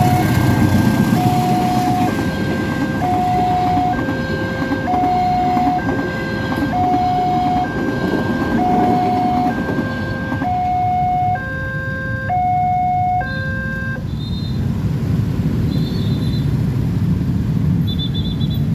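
Level-crossing warning alarm sounding a two-tone electronic signal, alternating between a lower and a higher tone about once a second, which means a train is approaching or passing. The alarm stops about 14 seconds in, over a steady low rumble.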